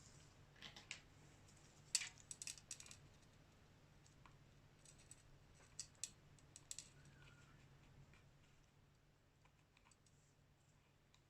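Scattered light clicks and taps from hands and small tools working on a smartphone during a screen replacement, bunched around two seconds in and again around five to seven seconds in.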